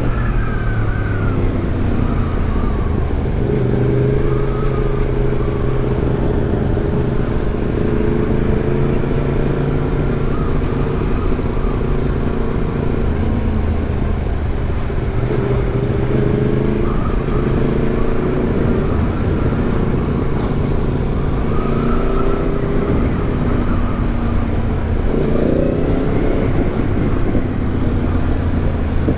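Yamaha MT-10's crossplane inline-four running through an aftermarket Arrow exhaust while riding, heard over low wind rush. The engine mostly holds a steady pitch, drops off near the start and rises again about 25 seconds in.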